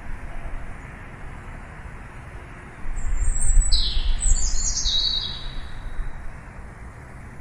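Wild birds chirping: a quick run of several high, downward-sweeping chirps about three seconds in, over a steady low rumble that swells while they call.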